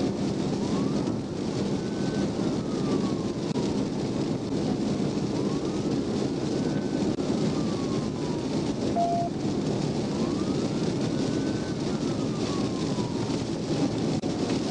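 Police car siren wailing, rising and falling slowly three times. It sits under steady tyre, road and rain noise heard from inside the patrol car at speed.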